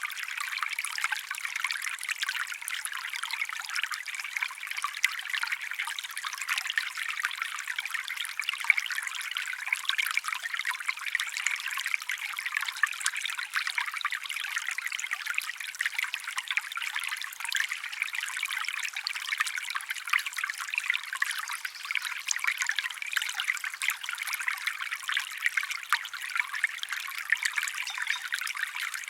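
Water trickling steadily over stones in a small stream, with a continuous fine splashing.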